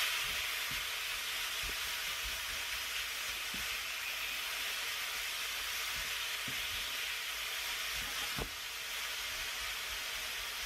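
Diced chicken sizzling steadily in a hot cast-iron skillet as it is stirred, with a few light knocks of the spatula against the pan.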